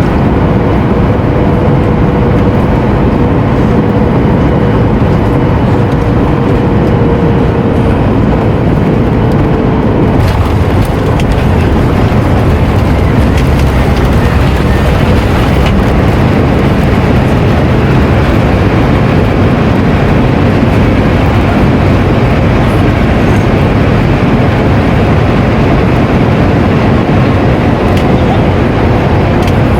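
Loud, steady cabin noise of a Boeing 737 MAX 9 on its landing: engine and airflow rush with a faint steady hum that stops about ten seconds in, where the rumble turns fuller and rougher.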